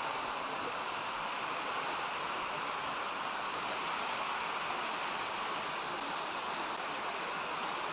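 Steady rush of a mountain stream pouring down a cascade of small waterfalls, an even unbroken noise.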